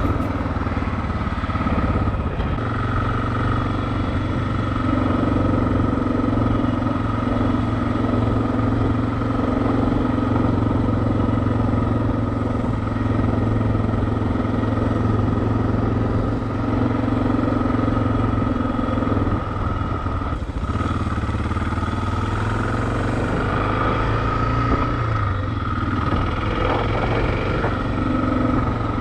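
Motorcycle engine running steadily while riding, with road and wind noise; the engine note changes about two-thirds of the way in.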